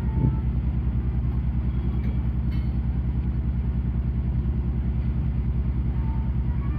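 The marine diesel engine of the Royal Wing (ex-Kurenai Maru) running steadily, a low rumble with a rapid, even throb of several beats a second.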